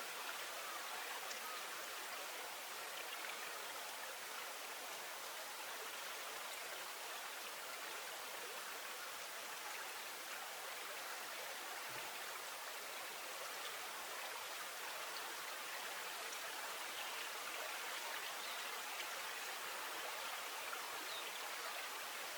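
Steady rush of flowing water, an even, unbroken hiss with no other distinct sounds standing out.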